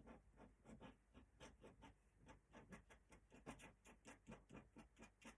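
Faint scratching of a pen on paper in quick, regular strokes, about four or five a second, as a drawing is inked.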